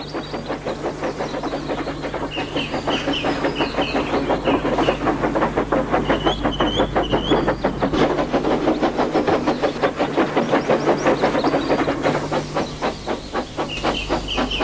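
Steam locomotive sound effect with freight cars rattling along the rails, a fast even clatter of about six beats a second that builds in loudness and eases off slightly near the end. Short squeaky chirps sound above it now and then.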